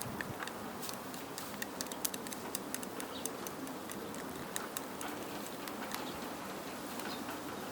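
Wood fire crackling in a campfire stand: irregular sharp pops and clicks over a steady hiss.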